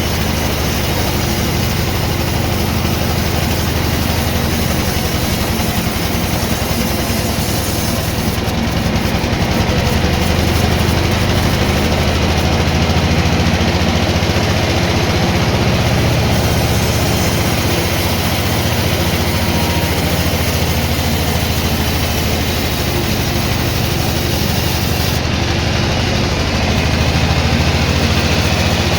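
Sawmill machinery running steadily: a constant engine-like hum with even mechanical noise, without breaks.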